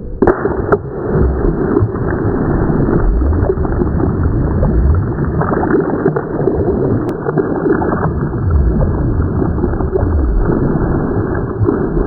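Heavy water rushing and gurgling, deep and muffled, with slow rising and falling surges and a couple of sharp clicks near the start.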